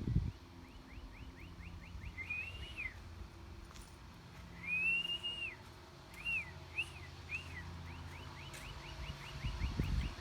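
A bird singing clear whistled notes: runs of quick rising whistles, about six a second, at the start and end, with arched whistles between them, one longer arched note near the middle. A low steady hum sits underneath.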